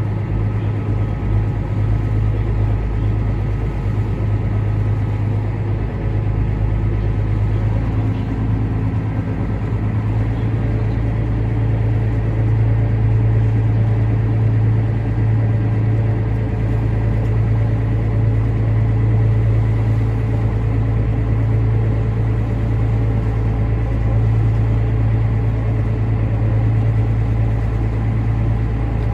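Small ferry's engine running with a steady low drone, growing slightly louder about twelve seconds in.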